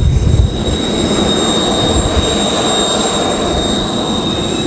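Kawasaki T-4 jet trainers' turbofan engines running at taxi power: a steady high whine over a loud rushing rumble.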